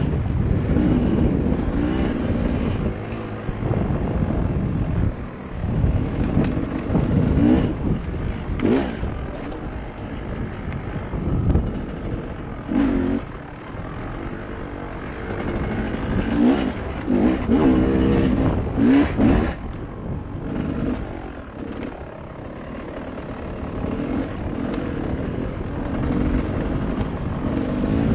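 Dirt bike engine running on a trail ride, its pitch repeatedly rising and falling as the throttle is worked.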